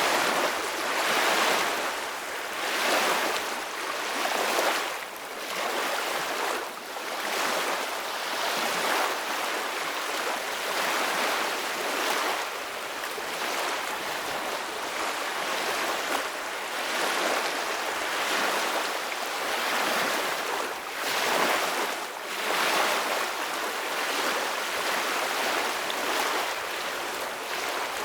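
Ocean waves washing on the shore, a steady hiss of surf that swells and ebbs every second or two.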